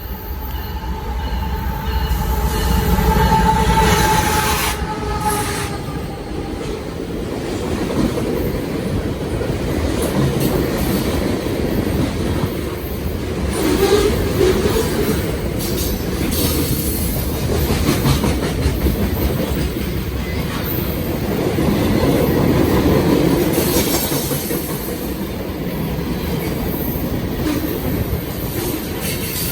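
Long freight train rolling past: a steady rumble of cars with the clatter of wheels over the rails.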